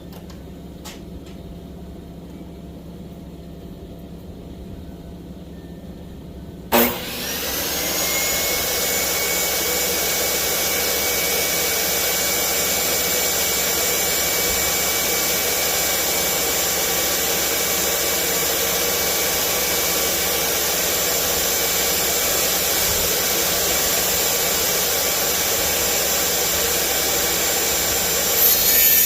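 An electric power tool's motor is switched on about seven seconds in, spins up with a rising whine, and then runs steadily at full speed. It gets a little louder near the end.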